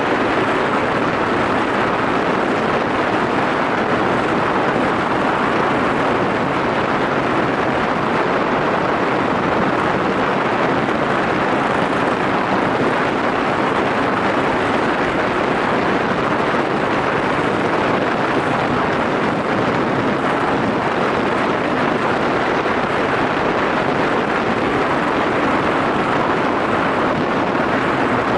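Steady wind rush over the microphone from a Yamaha SRX400 motorcycle riding at an even speed, with its single-cylinder engine humming low underneath.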